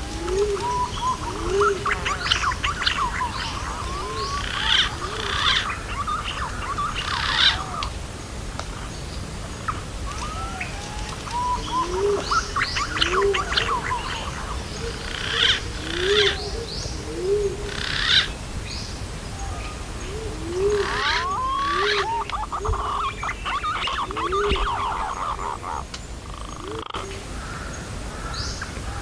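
Punai (green pigeon) lure recording: short, low, rising-and-falling call notes repeat about once a second, over bursts of higher chirping and whistled birdsong that come and go in clusters.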